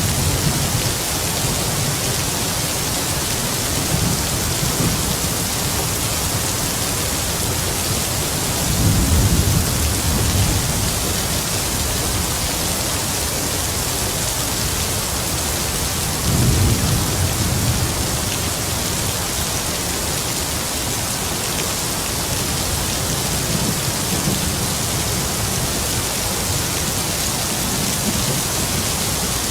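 Heavy rain falling steadily, with distant thunder rumbling low underneath: two louder rolls, about nine seconds in and again about sixteen seconds in, and fainter ones around them.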